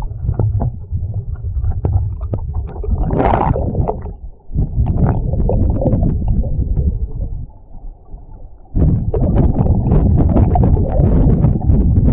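Creek water below small rapids and waterfalls, heard by an action camera held underwater: a loud, muffled low rumble with scattered clicks and knocks. It drops off briefly about four and a half seconds in and again around eight seconds.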